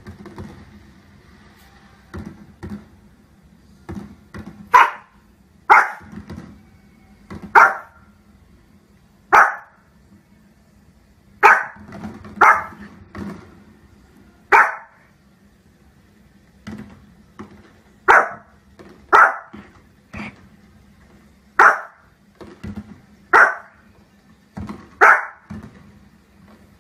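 Small long-haired dog barking sharply and repeatedly at fireworks on a television, about fifteen loud barks coming in irregular clusters of one to three.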